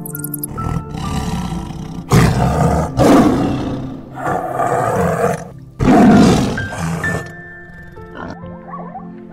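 Tiger roaring and snarling in four loud, rough bursts, ending about seven seconds in, over background music.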